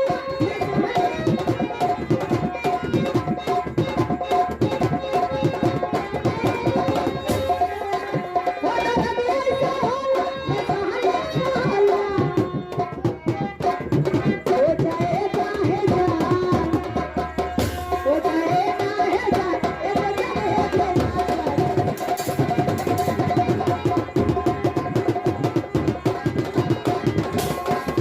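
Instrumental passage of Indian folk music: fast, dense tabla-style hand drumming under a melody instrument holding and bending notes.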